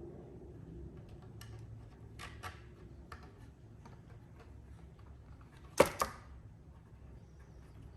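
Scattered light clicks and knocks from parts being handled during assembly, then two sharp, louder clicks close together about six seconds in.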